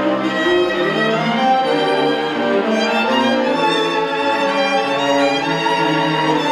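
String quartet playing a slow piece: sustained bowed violin lines over low cello notes.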